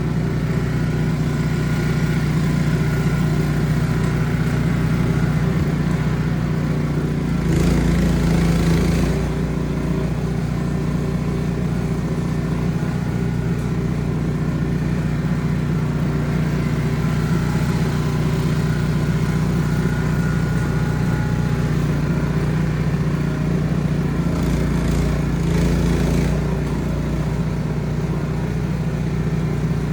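Ariens Platinum SHO 24-inch two-stage snow blower running steadily. It gets louder for a moment twice, about eight seconds in and again about twenty-five seconds in.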